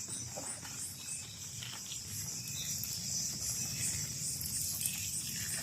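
Night insect chorus of crickets or katydids: a steady high-pitched buzz that pulses about two to three times a second, over low rustling.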